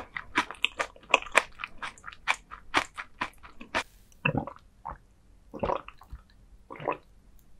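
Close-miked chewing of crunchy raw gizzard shad sashimi, bones and all: rapid crisp crunches for about four seconds, then a few slower, softer, wetter chews with pauses between them.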